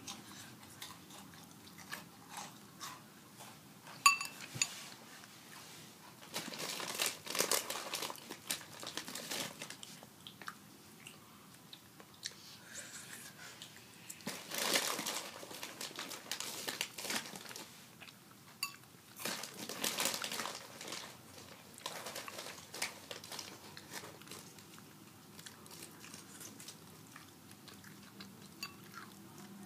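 Close-up crunching and chewing of tortilla chips, coming in several bouts, with a sharp click about four seconds in.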